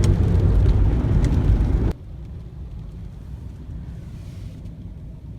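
Low, steady rumble of a car on the move, which cuts off suddenly about two seconds in to a quieter low rumble.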